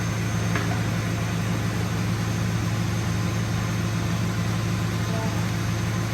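Tow truck engine idling steadily, a constant low hum.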